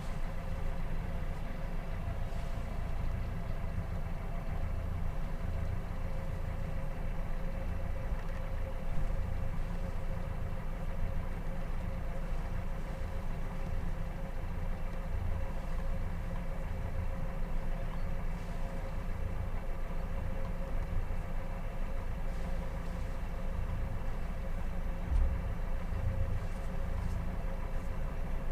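A 40-foot sailboat's engine running steadily at low revs while the boat is manoeuvred into its berth, with wind rumbling irregularly on the microphone.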